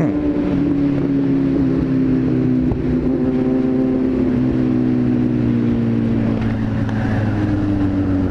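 Car engine running steadily under way, a constant drone whose pitch sags slightly and then picks up again.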